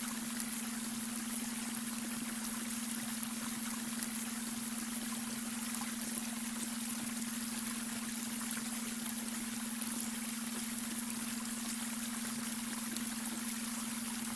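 Babbling brook: steady running and trickling water, with a steady low hum underneath from the beta brainwave tone layered into the mix.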